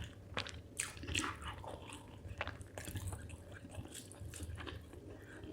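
A person chewing spicy chicken liver with rice close to the microphone: wet smacking and squishing mouth sounds with scattered sharp clicks.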